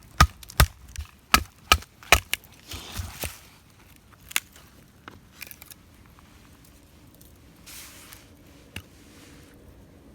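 Firewood being broken up: a quick run of sharp wooden cracks and knocks over the first few seconds, then only a few scattered ones, with some rustling.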